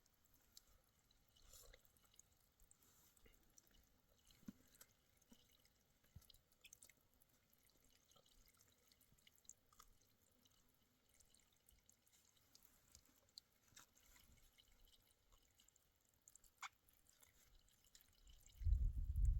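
Near silence with faint, scattered short ticks. A loud low rumble starts shortly before the end.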